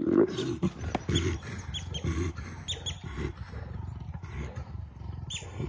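Two leopards fighting, growling and snarling, loudest in the first second.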